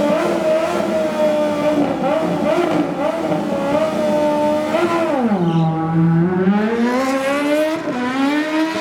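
Drag-racing motorcycle engine held at high, steady revs, then dipping in pitch about halfway through and climbing back up.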